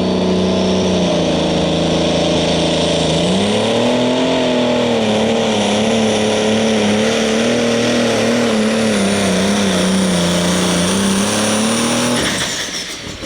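Minneapolis-Moline G1000 super stock pulling tractor's engine running hard under load down the track. Its pitch rises about three seconds in and wavers up and down, then the engine cuts off suddenly shortly before the end as the pull finishes.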